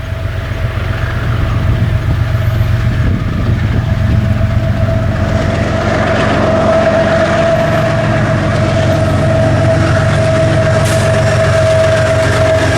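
Freight train with diesel locomotives drawing nearer and getting louder, the engines running with a low rhythmic rumble. A steady high whine strengthens about halfway through.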